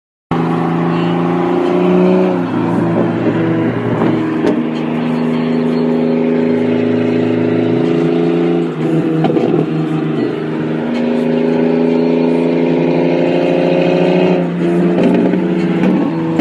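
A performance car's engine and exhaust accelerating through the gears. The pitch climbs slowly in each gear and drops at an upshift about two and a half seconds in, again near the middle, and again near the end.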